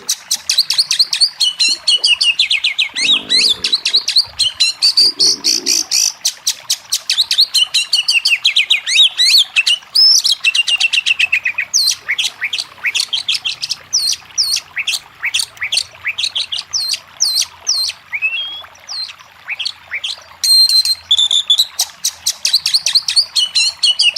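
Oriental magpie-robin (kacer) singing a loud, fast, varied song of chirps, trills and sweeping whistled notes. The notes come densely at first, thin out into spaced downward-slurred calls through the middle, and turn dense again near the end.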